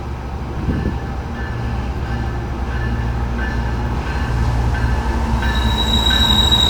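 Diesel freight train approaching, its locomotive's low rumble slowly growing louder. From about five and a half seconds in, a steady high-pitched squeal of wheel flanges grinding on the curving track joins in.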